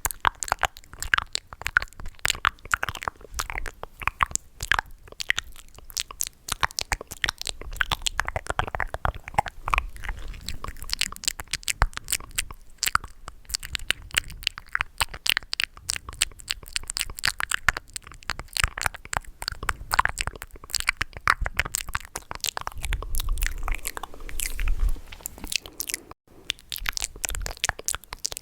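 Close-miked ASMR mouth sounds: a dense, unbroken stream of short clicks and smacks from the lips and tongue, many per second.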